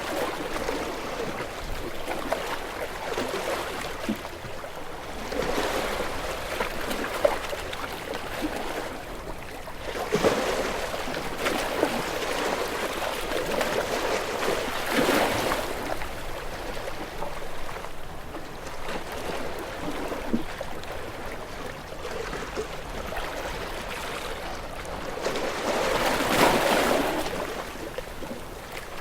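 Ocean waves washing in and drawing back, swelling in slow surges every few seconds, with the biggest surge near the end.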